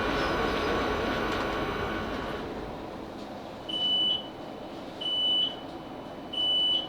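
Class 458 electric train slowing to a stop, its running noise and motor whine fading away about two and a half seconds in. Then three high electronic beeps sound about a second and a quarter apart, the in-car alert tone as the train stands at the platform.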